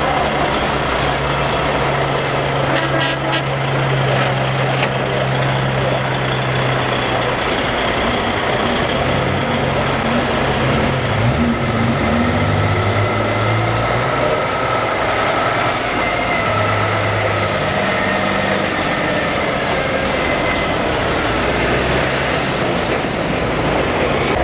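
Heavy trucks' diesel engines running steadily as they roll past in a slow procession, the low engine drone shifting in pitch every few seconds as one truck follows another.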